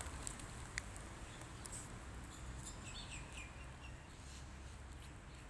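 A few faint, short bird chirps about three seconds in, over a low steady outdoor rumble, with a few small scattered clicks.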